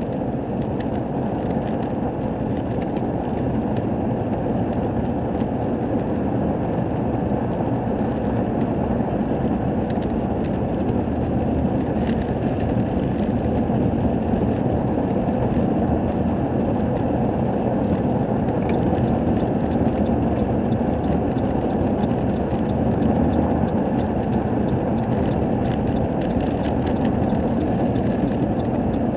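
Truck driving on the highway: a steady low engine and road drone, with a few faint light rattles.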